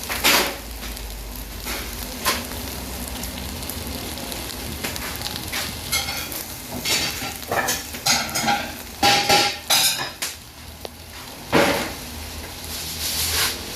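Rice-stuffed whole chicken sizzling on a heated iron griddle plate, with the rice crisping into scorched rice. Utensils clink and scrape against the plate repeatedly, most busily around the middle.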